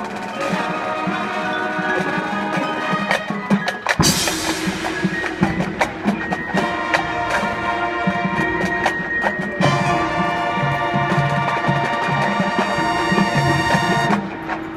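Marching band playing: brass and woodwinds holding chords over percussion strikes, with a sudden loud full-band hit about four seconds in. The music stops near the end.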